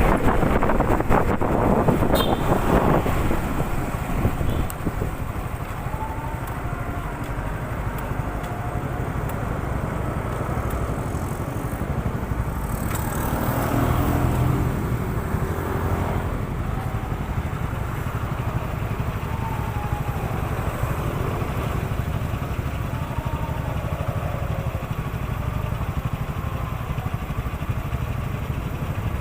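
Honda CB150R StreetFire motorcycle's single-cylinder engine running steadily, with wind on the microphone, stronger in the first few seconds.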